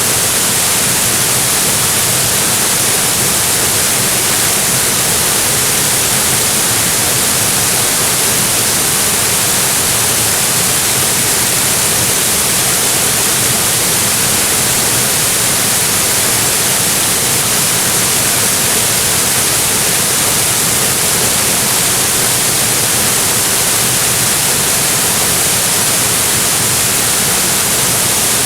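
Waterfall pouring in a steady, unbroken rush of falling water, its hiss strongest in the high range.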